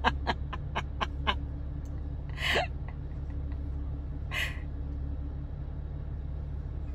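Steady low hum of an idling car engine, with a quick run of clicks in the first second or so. A young child gives two short cries, about two and a half and four and a half seconds in.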